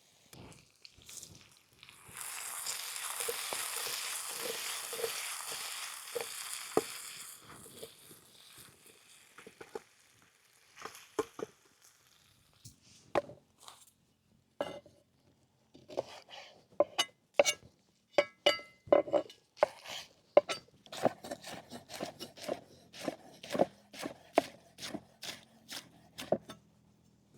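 Food sizzling in a hot pan, a hiss that starts about two seconds in and fades over about five seconds. From about halfway on, a run of sharp knife strikes on a cutting board, roughly two a second and unevenly spaced, as vegetables are chopped.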